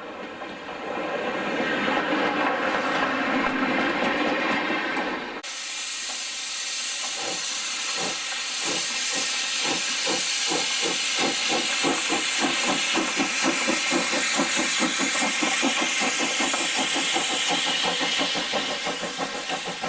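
Steam locomotive letting off steam with a hiss. About five seconds in, the sound switches abruptly to a louder hiss with regular exhaust beats that get faster, as of a locomotive getting under way.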